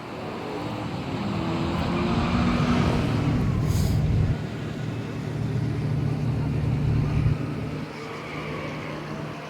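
Car engine running at a drag strip. It grows louder over the first few seconds, then drops off abruptly twice, about four and seven seconds in.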